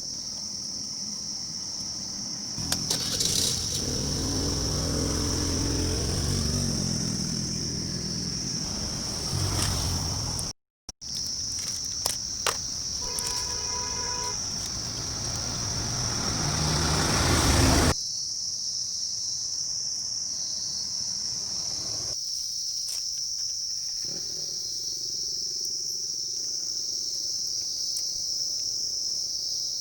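Crickets trilling steadily and high-pitched throughout. Under them, for roughly the first half, runs a louder low rumble like a running vehicle, with a short pitched beep partway through. The rumble stops suddenly, leaving only the crickets.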